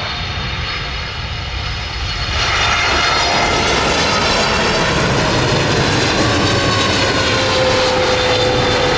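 Boeing 787 jet airliner passing close, its engine noise growing louder about two seconds in and then holding, with a whine that slowly falls in pitch.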